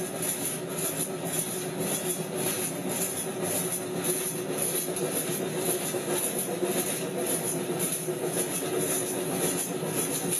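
Train in motion: a steady rolling rumble with a steady hum and an even, rapid rattle.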